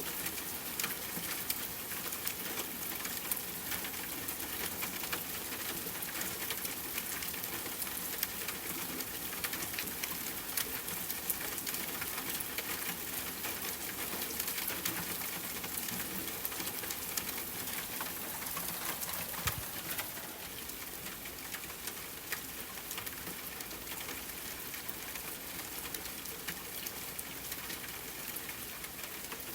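Rain pattering steadily on a tent over a crackling campfire, a dense mass of small drop-hits and pops. The sound thins slightly about two-thirds of the way through.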